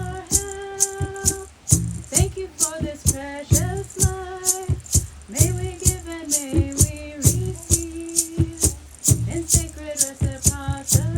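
A hand rattle shaken in a steady beat, about three strokes a second, under a voice singing long held and sliding notes in a ceremonial chant.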